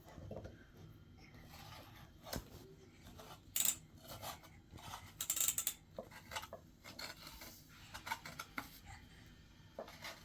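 Light clicks, clinks and scraping of small objects being handled, with a few sharper bursts of rustle or scrape about three and a half and five seconds in.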